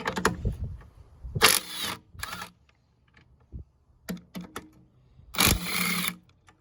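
Metal hand tools clicking and clattering while a socket wrench with an extension works on the throttle body's 10 mm bolts, with two short bursts of rapid ratchet clicking.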